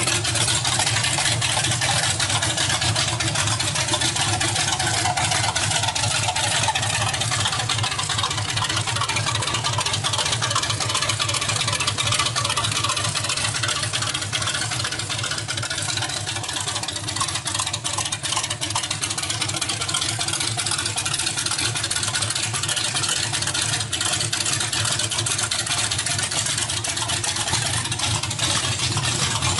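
Chevrolet 383 stroker small-block V8 running steadily at idle.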